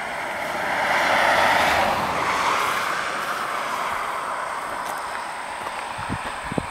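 A car passing by: a rushing sound that swells about a second in and then slowly fades away.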